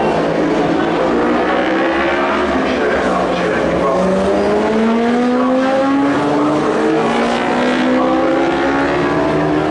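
Superbike racing motorcycle engines running loud and continuous, several engine notes at once slowly rising in pitch as the bikes accelerate.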